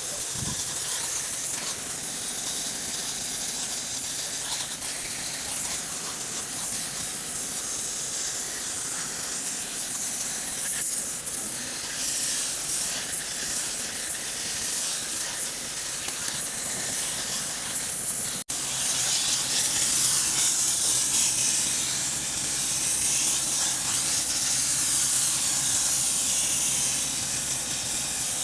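High-pressure cleaning spray hissing steadily against a radiator and oil cooler. It breaks off for an instant about two-thirds of the way through, then comes back louder and hissier.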